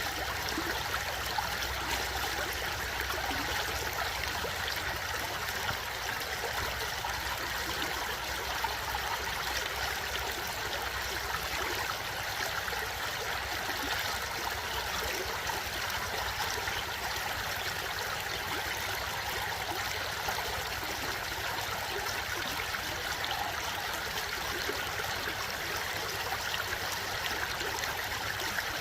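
A stream flowing steadily, with an even rush of running water.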